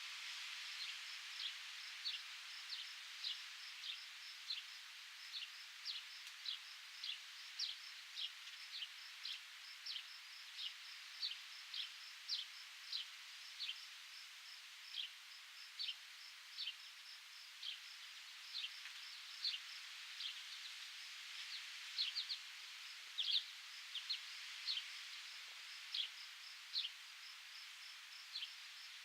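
Outdoor nature ambience: a short, high chirp repeated about twice a second over a faint steady hiss.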